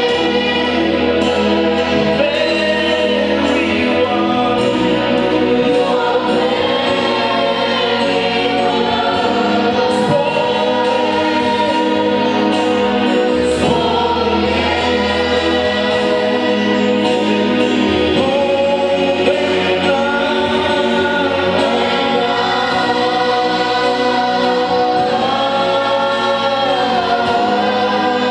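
Gospel choir singing a worship song over sustained instrumental accompaniment, continuous throughout.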